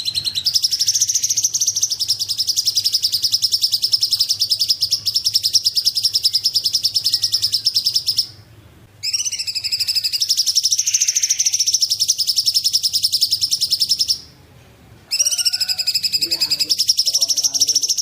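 Cungkok bird singing: long, high trills of very rapidly repeated notes, in three runs of several seconds each with short pauses of about a second between them.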